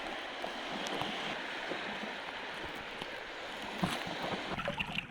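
Sea water rushing and washing on a beach, a steady surf noise. Near the end it gives way to scattered short splashes and knocks.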